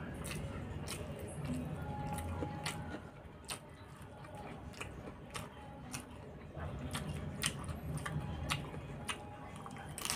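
Close-up chewing of a handful of rice, curry and raw salad vegetables, wet mouth sounds with a crisp crunch roughly every half second to a second.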